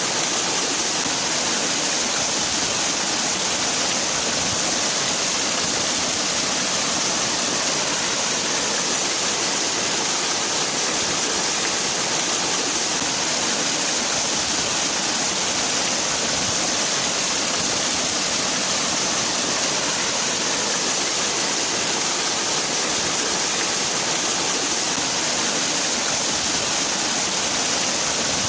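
Waterfall: water falling and splashing steadily, an even hiss with no breaks.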